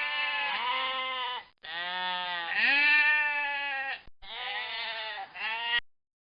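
Bleating from a sheep or goat: a series of drawn-out, wavering bleats in three runs with short breaks between them, stopping suddenly near the end.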